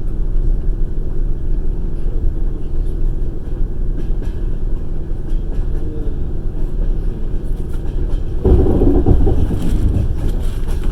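Passenger train running on the rails, a steady low rumble of wheels and carriage. About eight and a half seconds in it suddenly gets louder and rougher.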